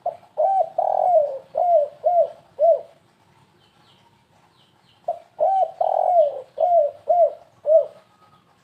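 Spotted dove (tekukur) cooing in the stuttering 'kuk 3 gagap' style used as a lure call: two phrases of about six arched coos each, the second starting about five seconds in.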